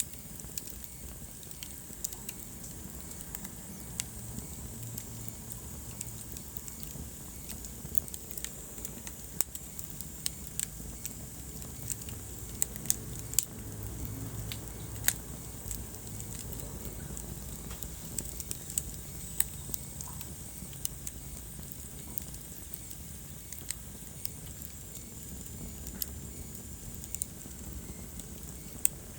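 Wood fire burning in a fireplace: irregular sharp crackles and pops over a steady low rumble and soft hiss.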